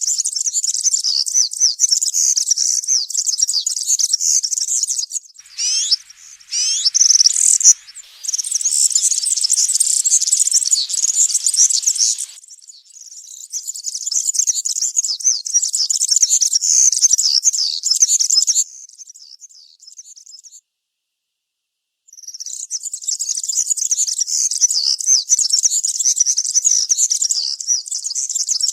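European serin singing its fast, high, jingling song in long unbroken bouts, with a few louder sweeping notes about six to eight seconds in. The song stops for a second or so about two-thirds of the way through, then starts again.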